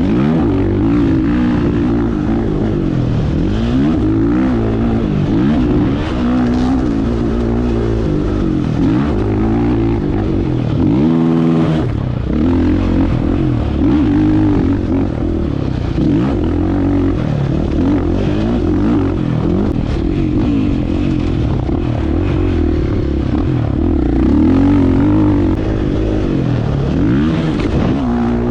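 Husqvarna FE 501's single-cylinder four-stroke engine being ridden hard. Its pitch rises and falls over and over as the throttle is opened and closed.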